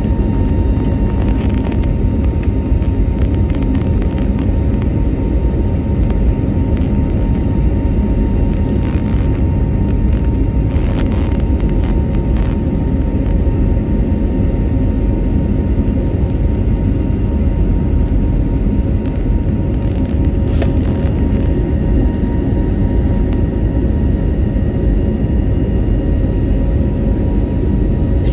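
Steady jet airliner cabin noise: an Airbus A320-family jet's engines and airflow heard from inside the cabin, a constant low-heavy rush with a faint steady hum through it.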